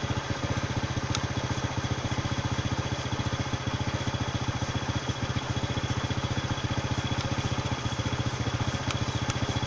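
Motorcycle engine running steadily at an even, low speed, in fourth gear so the drive chain and rear sprocket turn with it.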